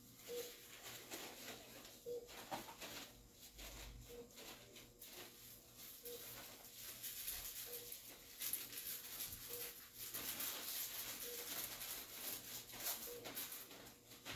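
Rustling and handling of surgical drapes, towels and wrappers, with light clicks, over a faint short beep that repeats about every two seconds.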